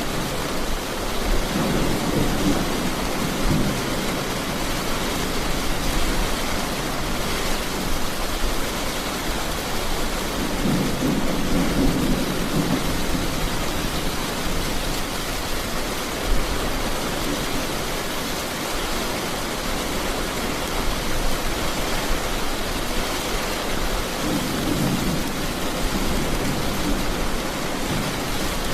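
Heavy rain falling steadily, with low rolls of thunder rumbling three times: near the start, about a third of the way in, and near the end.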